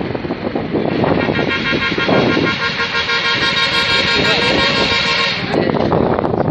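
A vehicle horn held steadily for about four seconds, then cut off, over a continuous rushing road and wind noise.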